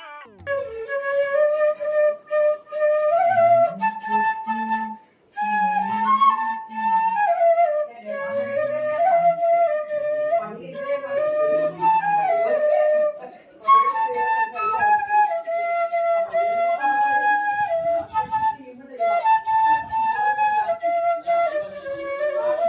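Bamboo flute playing a flowing, ornamented melody with gliding notes, pausing briefly twice between phrases.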